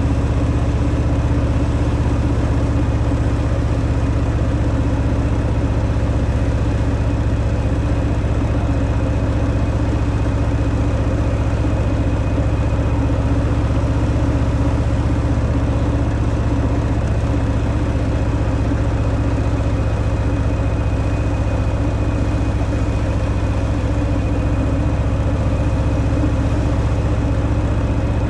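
Harley-Davidson Fat Boy's V-twin engine running steadily through its stock exhaust, at an unchanging engine speed with no revving.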